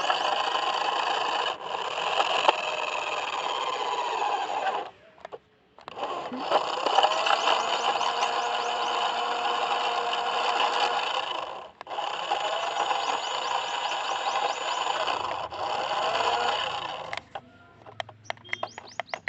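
A toy car's small electric motor whirring at full power in three runs of about five seconds each, with short pauses between, as the stuck car strains to drive itself free.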